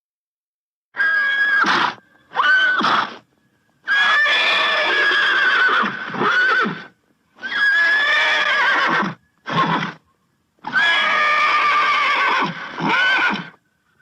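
Horse neighing: about six whinnies, some short and some a few seconds long, with brief silent gaps between them.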